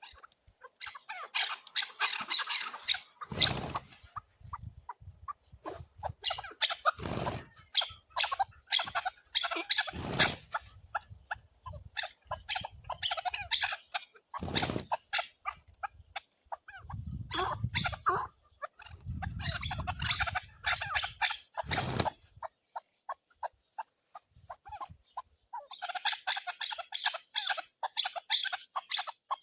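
Chukar partridges calling in bouts of rapid, densely repeated short notes, with a pause of a few seconds near the end before the calling resumes. Several dull thumps and low rumbles sound among the calls.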